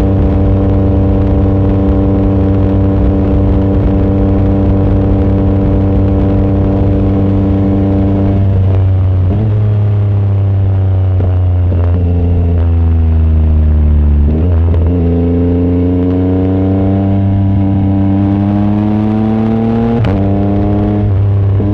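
Yamaha MT-09 SP's 890 cc inline-three running loud through a baffle-less exhaust while riding. It holds steady revs for about eight seconds, the revs then fall as the bike slows, and from about fourteen seconds in it pulls away with the revs climbing, with one gear change near the end.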